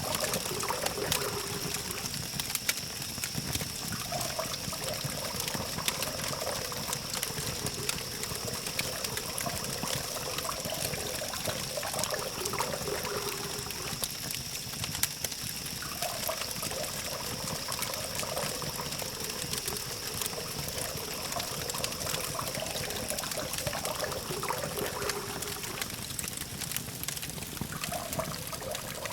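Campfire crackling with many small pops, over a steady hum of distant traffic. A constant high-pitched tone runs underneath.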